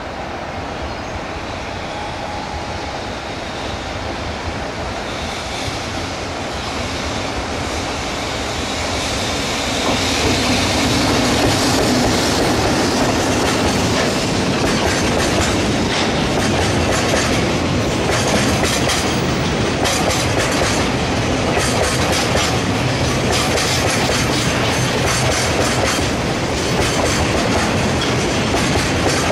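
A freight train of tank wagons hauled by an electric locomotive approaching and passing close by. The rumble grows louder over the first ten seconds, then becomes a steady, loud clickety-clack of the wagons' wheels running over the rail joints.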